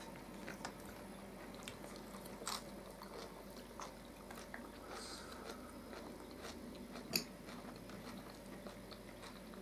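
Quiet chewing and eating sounds as two people eat baked chicken legs and sauerkraut, with scattered faint clicks of a fork and handling of food. Two sharper clicks stand out, one a little over two seconds in and one about seven seconds in.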